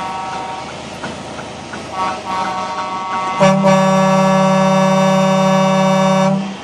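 Truck air horns sounding: a higher horn sounds briefly at the start and again about two seconds in. Then a loud, deeper air horn is held steady for about three seconds and cuts off sharply near the end.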